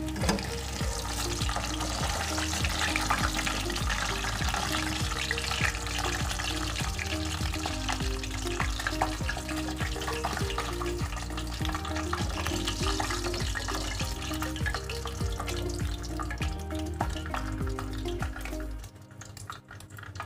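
Chicken nuggets frying in hot oil with a steady crackling sizzle, over background music; both drop away about a second before the end.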